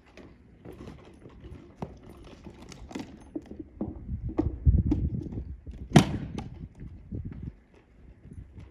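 Irregular knocks and clatter of a gun crew working a muzzle-loading cannon with its wooden-staffed sponge and loading tools, mixed with footsteps. One sharp knock stands out about six seconds in.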